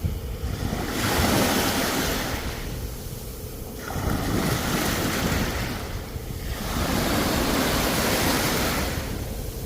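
Sea waves breaking and washing up the shore, three surges of surf that swell and ebb back.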